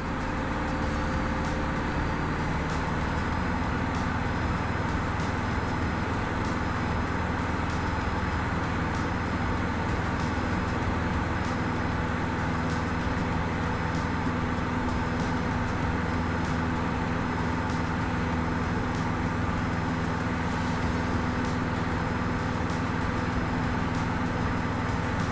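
Cessna 152's four-cylinder Lycoming engine and propeller droning steadily in flight, heard inside the cockpit.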